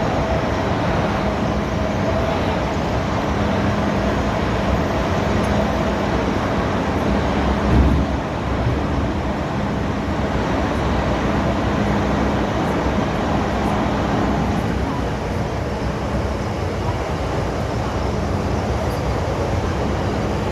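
Inside an MTR M-Train car: a steady rumbling din with a faint low hum, and a single thump about eight seconds in.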